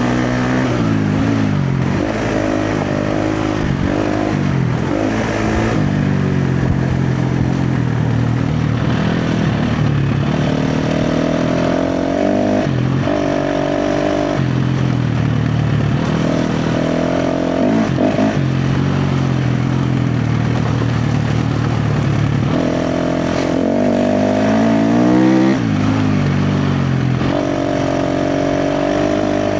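KTM 350 XC-F's single-cylinder four-stroke engine under hard riding, its revs rising and falling with the throttle. There are several quick blips in the first few seconds, then longer pulls held at higher revs in the middle and near the end, with short drops in between.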